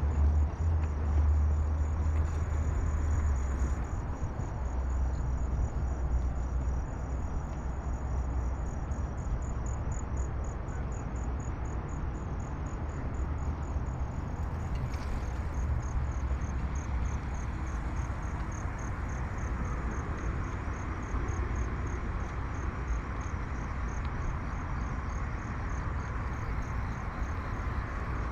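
Crickets chirping in a steady, evenly repeating pulse, over a low steady rumble.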